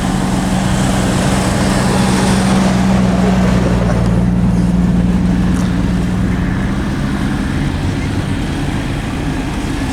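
Vehicle engine running steadily with a low hum under broad road and trail noise, easing a little near the end.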